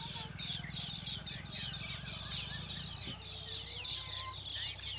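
Birds chirping rapidly: many short, high, downward-sweeping chirps overlapping one another, over a low steady hum.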